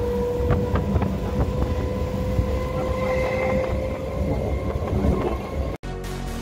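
Suburban electric local train accelerating out of a station, heard from inside the coach: a heavy rumble of wheels on track with a steady motor whine that rises slightly in pitch, and a few sharp clicks as the wheels cross rail joints. The sound cuts off abruptly near the end.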